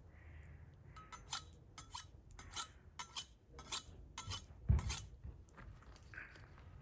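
Cookware and utensils being handled: a run of irregular clinks and knocks, with one heavier thump a little before the end.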